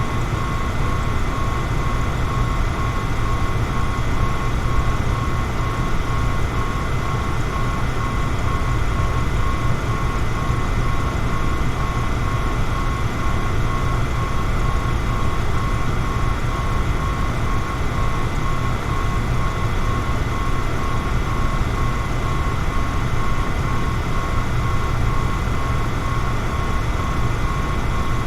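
Electric fan running steadily: a constant airy whoosh over a deep rumble, with a faint steady motor whine above it.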